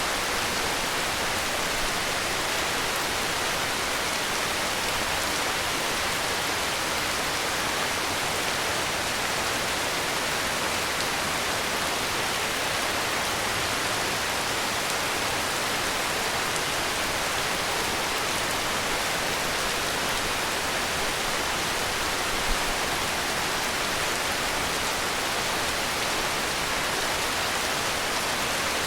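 Steady heavy rain: an even, unbroken hiss that holds the same level throughout, with one brief low bump about two-thirds of the way in.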